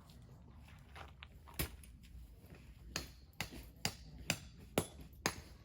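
A series of sharp clicks or taps, sparse at first and then coming about twice a second through the second half, over a low steady background hum.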